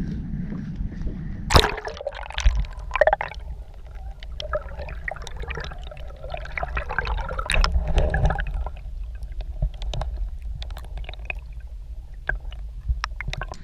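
Water splashing and gurgling against a kayak hull, with scattered small clicks and a sharp knock about one and a half seconds in.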